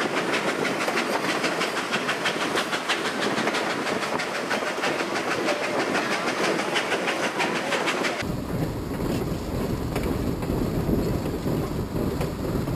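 Excursion train's passenger cars rolling along the track, heard from an open car: steady rolling noise with rapid clicking and rattling of wheels over the rails. About eight seconds in the sound changes abruptly to a heavier low rumble.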